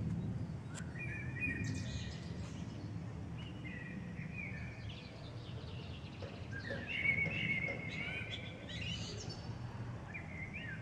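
Small birds chirping and twittering in short, quick phrases, busiest about seven seconds in, over a steady low background rumble.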